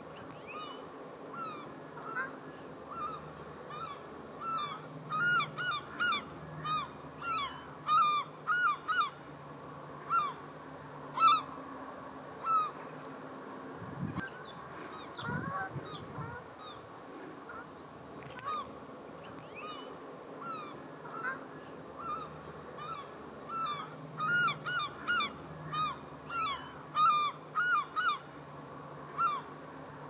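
Estuary birds calling in quick runs of short, loud calls, in two busy bouts with sparser calls between.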